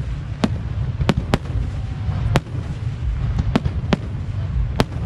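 Aerial fireworks bursting in a run of about eight sharp bangs at uneven intervals, over a steady low rumble.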